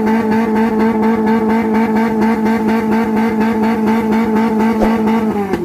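Off-road 4x4's engine held at high, steady revs with a pulsing beat, then revs falling away sharply near the end.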